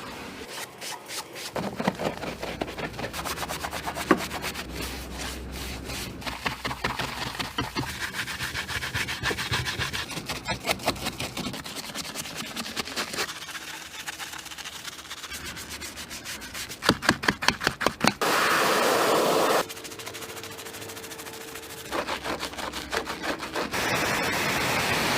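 Rapid scrubbing strokes on a car's bodywork during a wash. About 18 seconds in comes a short burst of spray, and a second, longer spray starts a few seconds before the end.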